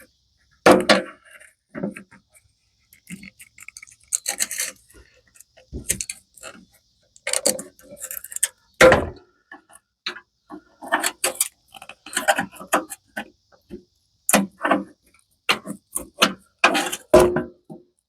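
Hand work on a lawn tractor's footboard: scattered clicks, knocks and short scraping noises as tools are handled and the rubber floor mat is pried off its plastic push-in fasteners.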